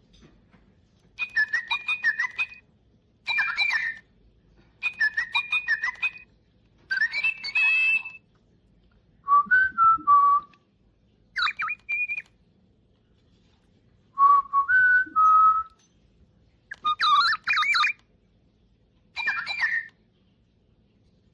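Little Live Pets My Really Real Bird toy tweeting through its small speaker. It plays about nine short bursts of electronic bird chirps and warbling whistled trills, each about a second long, with pauses between them.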